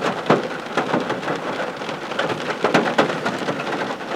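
Steady rain with many irregular drop strikes landing close to the microphone.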